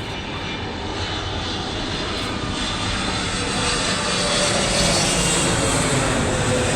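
Boeing 777-300ER's GE90 turbofan engines on final approach: a steady jet rush with a faint high whine, growing steadily louder as the airliner draws nearer.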